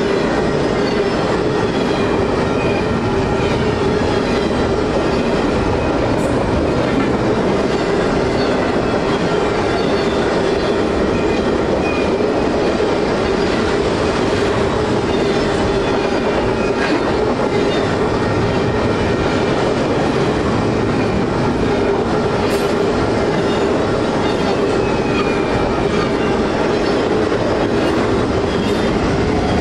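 Double-stack intermodal freight train rolling through a railroad grade crossing: a loud, steady rumble and clatter of wagon wheels on the rails, with the crossing bell ringing steadily.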